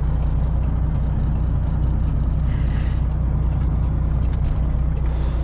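Semi truck's diesel engine running at a low, steady idle, a constant low drone.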